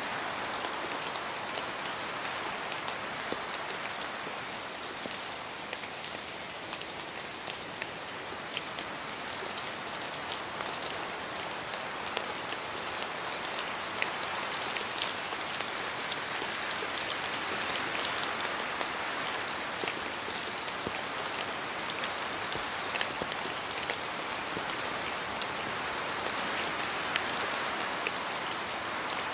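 Steady rain falling, with many separate drops ticking through the hiss. The hiss swells and eases gently a few times.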